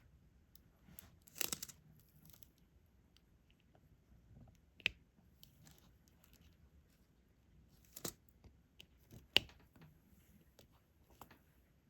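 Diamond painting work: a stylus picking resin drills from a plastic tray and pressing them onto the sticky canvas, giving scattered light clicks and rustles. A longer crackly rustle comes about a second and a half in, and sharper clicks come about five, eight and nine and a half seconds in.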